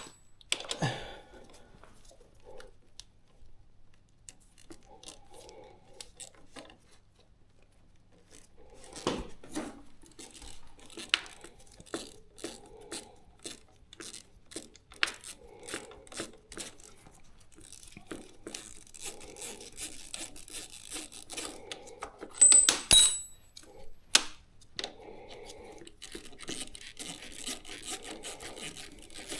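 Hand tools working on a motorcycle's front brake caliper bolts: a wrench clicking and clinking against metal in scattered small knocks, with one louder ringing metallic clank about three quarters of the way through.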